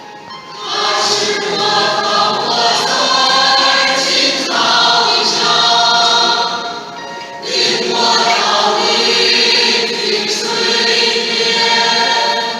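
A church choir singing a hymn together, in long held phrases with short breaks about half a second in, at about four and a half seconds, and at about seven and a half seconds.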